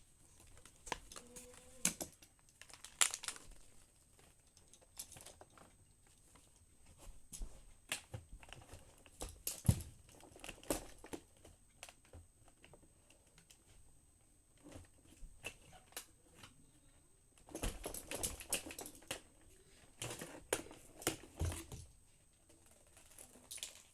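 Irregular clicks, taps and rustling of plastic vacuum cleaner parts being handled and pulled out, with louder clusters of handling noise near the middle and toward the end.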